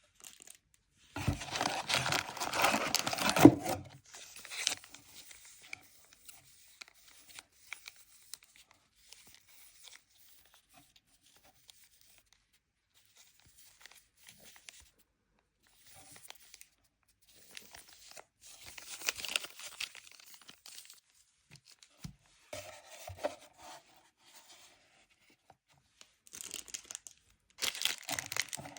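Packaging of a Pokémon card Elite Trainer Box being torn open and crinkled by hand. A loud tear about a second in lasts a couple of seconds, followed by quieter rustling and handling, then more tearing past the middle and again near the end.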